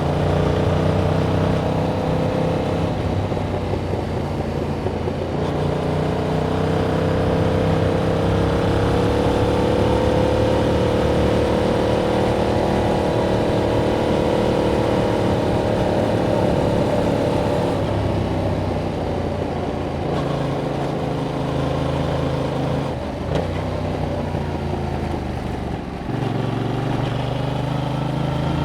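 Yamaha MT-07's parallel-twin engine running through its stock exhaust while ridden, its pitch slowly rising and falling as the throttle opens and eases. Two brief dips in the engine sound come late on.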